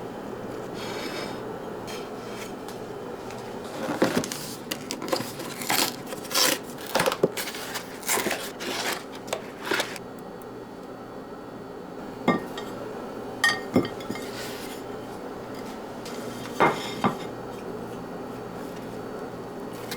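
Dishes and cutlery clinking and knocking as they are handled, in a quick run of clatters for several seconds, then a few separate clinks later on, over a steady low hum.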